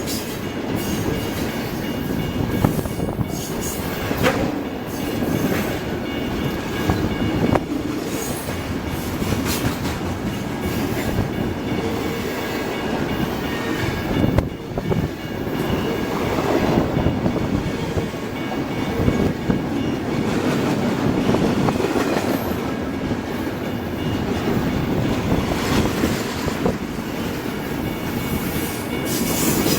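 BNSF freight train's cars rolling past close by: a steady rumble of steel wheels on rail, with scattered clicks and knocks as the wheels cross rail joints.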